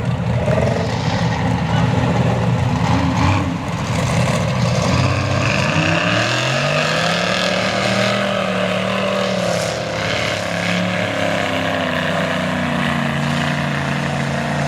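Mega truck engine running loud under throttle, revving up about five seconds in and holding high revs, with a brief dip near ten seconds.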